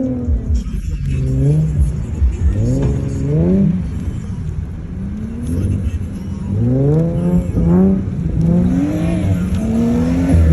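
BMW turbocharged straight-six engine revving up and down again and again as the car drifts on snow, each rev a rise and fall in pitch about a second long.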